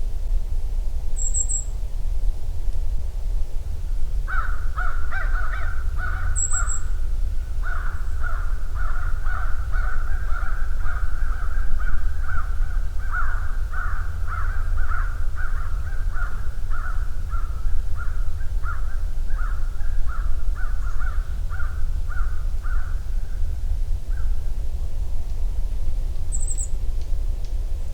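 Outdoor winter bird soundscape: a long run of repeated harsh bird calls for most of the middle, with a few very short, high, thin calls near the start and end, over a steady low rumble.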